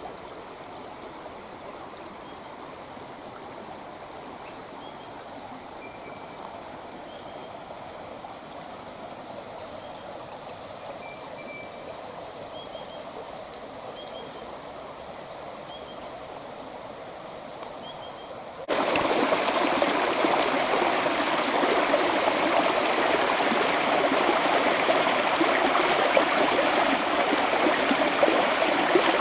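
Creek water flowing in a steady rushing trickle. About two-thirds of the way through it suddenly becomes much louder and brighter.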